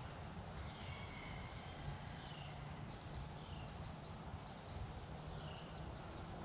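A bird calling repeatedly in the woods: short notes that slide downward, coming every second or two, over a faint steady low hum.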